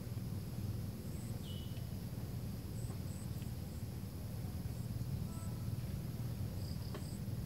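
Cinereous tit (glatik batu) giving short, very high-pitched chirps in twos and threes, faint over a steady low rumble of background noise.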